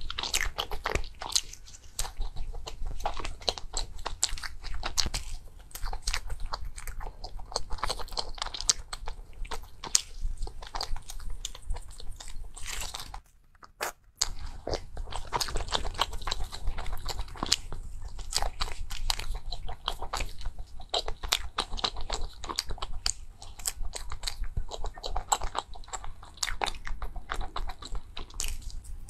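Close-miked chewing and biting of soft sponge cake and pastries: a dense run of mouth clicks and smacks, broken by a brief drop to near silence about halfway through.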